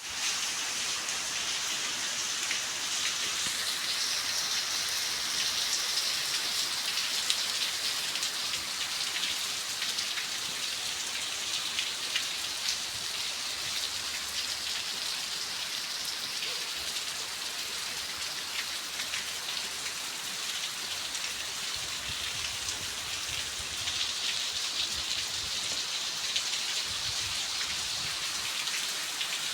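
Steady rain falling, with a constant hiss and many small drop impacts.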